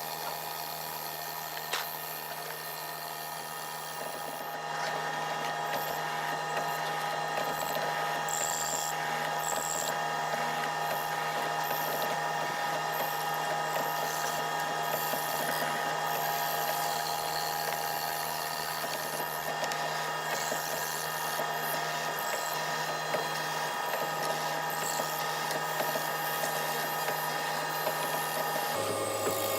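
Power tool motor running steadily with a constant whine, changing abruptly to a different tone near the end.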